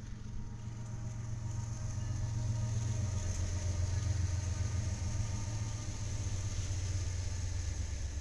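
Freight train's diesel locomotives passing with a low engine rumble that builds to its loudest about four seconds in, then eases slightly as the freight cars roll by.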